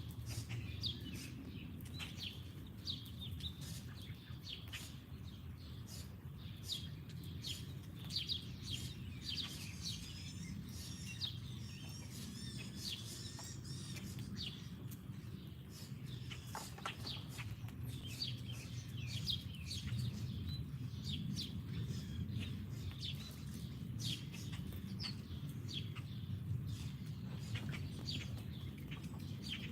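Wild songbirds chirping, many short sharp chirps one after another, with a warbling song about a third of the way in, over a low steady rumble.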